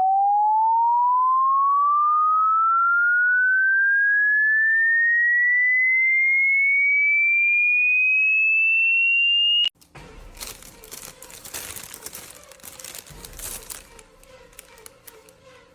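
An electronic pure tone sweeping slowly and steadily upward in pitch for about ten seconds, then cutting off suddenly. Quieter rustling and clicking noises follow.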